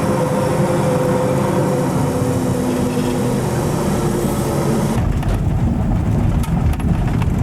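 Heavy diesel engine of a large log-handling machine running steadily, heard from the ride in the machine. About five seconds in the sound shifts to a deeper rumble with a few knocks.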